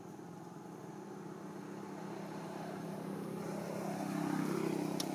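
A motor vehicle's engine passing by: a steady hum that grows louder to a peak about four seconds in, then begins to fade. A short sharp click comes near the end.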